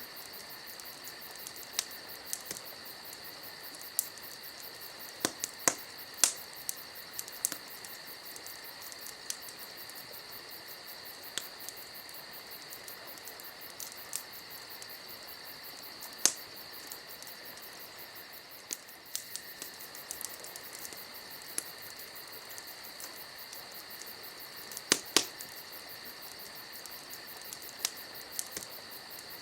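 Wood fire crackling, with scattered sharp pops, loudest in a pair about six seconds in and again near the end. Under it runs a steady, high insect chirring.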